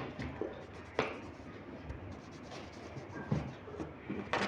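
A few sharp light knocks, the clearest about a second in and near the end, with faint scratching and rustling between them.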